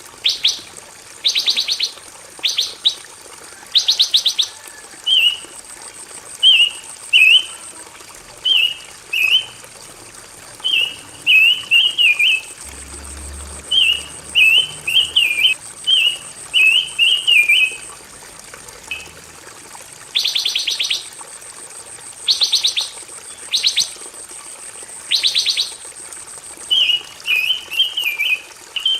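A pancawarna songbird singing: short warbling chirp phrases repeated over and over, broken by rapid buzzy trills about a second long. A faint steady high whine runs under the song.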